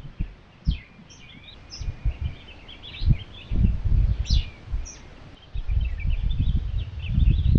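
Gusty wind buffeting the microphone in low gusts that come and go, strongest in the second half. Small birds chirp and twitter throughout.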